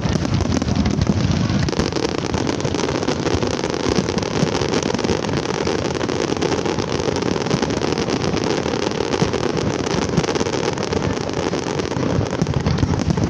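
Fireworks display: a dense, continuous barrage of shell bursts and crackling, with no single bang standing out.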